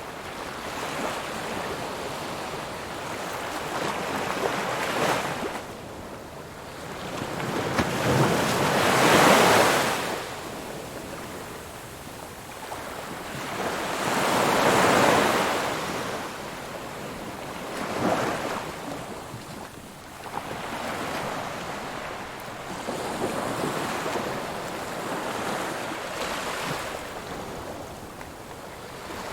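Ocean waves breaking on a shore, a steady wash of surf that swells and falls every few seconds, the largest breakers about nine and fifteen seconds in.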